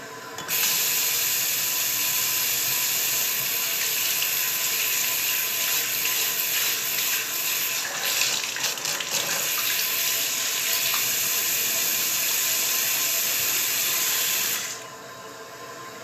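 Water running from a tap into a sink: a steady rush that grows much louder about half a second in and falls back to a quieter flow near the end.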